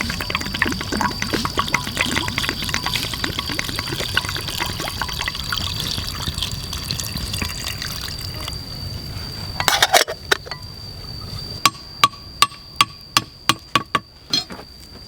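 Water pouring or trickling for about eight seconds, then a short cluster of knocks and a run of about nine sharp taps, roughly three a second. A thin, steady high whine sounds throughout.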